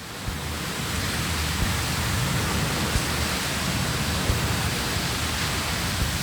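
Steady rushing noise with a low rumble beneath it, rising over the first second and then holding level.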